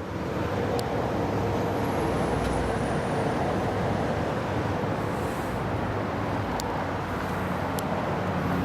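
Steady motor-vehicle rumble with a low hum and no distinct events, like road traffic or an engine running nearby, with a few faint ticks.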